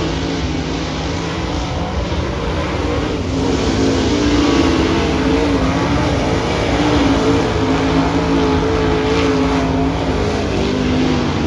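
Dirt track race car engines running laps, their pitch rising and falling as they circle the track.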